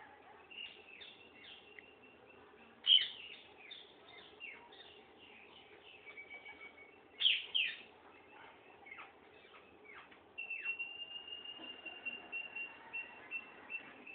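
Parrots chirping and calling in many short, sharp, falling chirps, with a louder call about three seconds in and a pair of loud calls about seven seconds in. From about ten seconds in, a long, steady high note runs on under the chirps.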